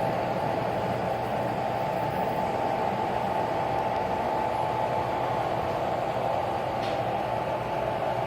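O scale model diesel train running on the layout: a steady running noise with a steady whine in it, and a faint tick about seven seconds in.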